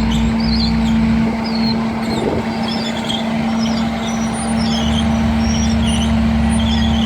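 Heavy diesel engine running steadily at a constant speed, with a steady hum.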